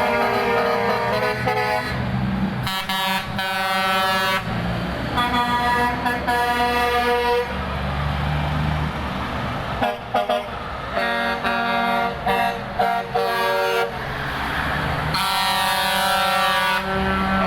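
Convoy trucks passing and sounding their air horns: a run of horn blasts one to three seconds long with short gaps, and a few quick short toots about ten seconds in, over the low rumble of the truck engines.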